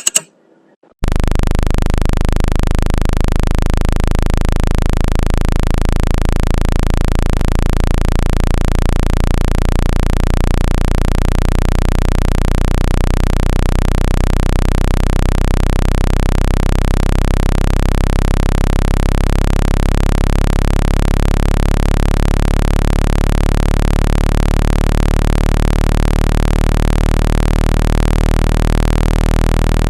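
Synthesized low-pitched speaker-cleaning tone: a loud, steady drone of many stacked pitches with a slow wavering throb, starting abruptly about a second in after a short click.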